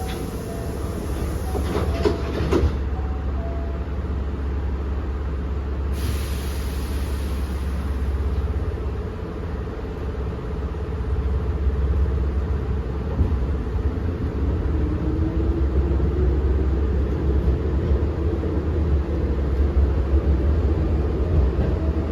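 Inside a Hankyu 7000 series electric train car pulling away from a station, with a steady low running rumble. There are a few knocks about two seconds in and a brief hiss of air around six seconds. From about two-thirds of the way through, a motor whine rises steadily in pitch as the field-chopper-controlled train accelerates.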